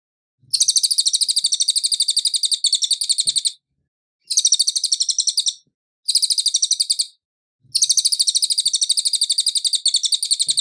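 Cililin songbird singing in four bursts of rapid, evenly repeated high notes, about a dozen a second, with short clean pauses between bursts.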